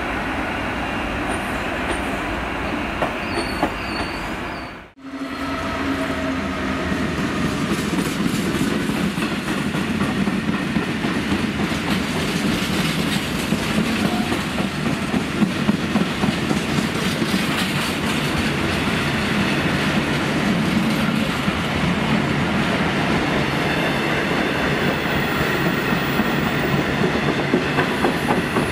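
A GWR Intercity Express Train running past. After a sudden break about five seconds in, a long rake of freight wagons, open box wagons then red flat wagons, rolls by, its wheels clacking rhythmically over the rail joints.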